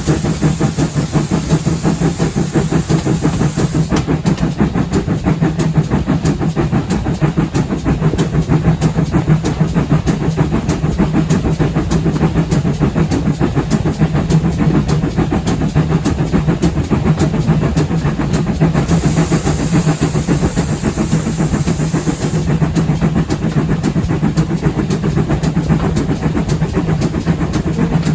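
A steam-hauled train running with a steady rumble and rapid rail clatter. High hissing comes in twice, at the start and again about two-thirds of the way through.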